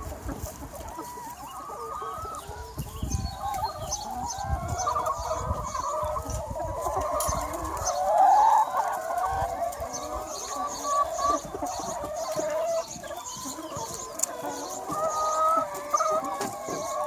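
A large free-range flock of hens clucking and calling over one another in a continuous chorus, with one louder call about eight seconds in.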